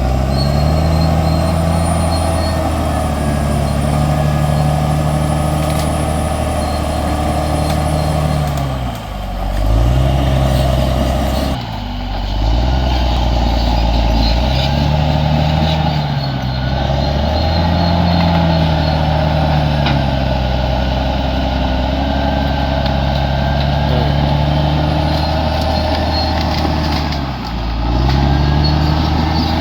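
Bulldozer's diesel engine running under load, its pitch sagging and recovering several times as the machine pushes.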